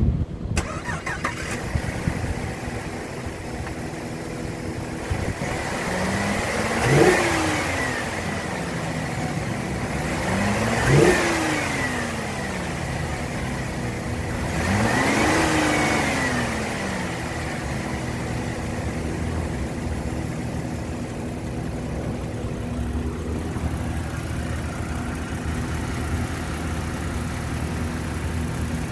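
2012 Holden Commodore engine idling steadily, blipped three times. Each rev rises and falls back to idle, about 7, 11 and 15 seconds in, and the third is slower and longer.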